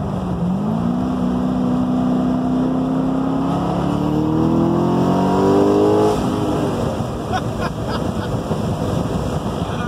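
Cammed LS7 V8 of a 2010 Corvette Z06 accelerating hard, heard from inside the cabin: the engine note climbs for about six seconds, getting louder, then drops away abruptly, leaving road and tyre noise.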